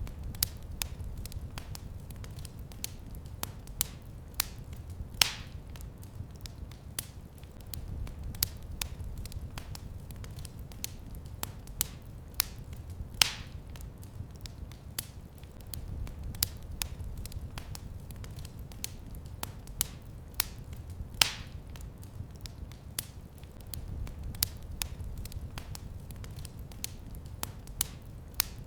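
Fire in a fireplace crackling: a steady run of small snaps with three louder pops spread through, over a low steady rumble.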